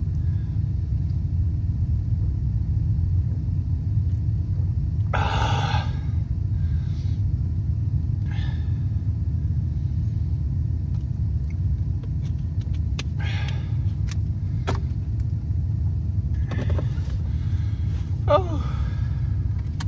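Steady low rumble of a pickup truck's engine and road noise, heard from inside the cab, with a few brief rustling noises over it.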